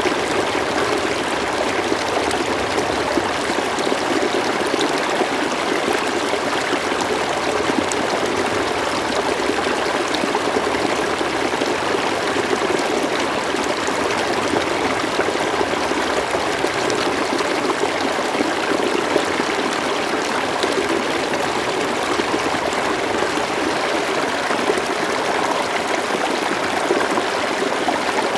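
River water flowing steadily, a continuous even rush with faint small splashes and trickles.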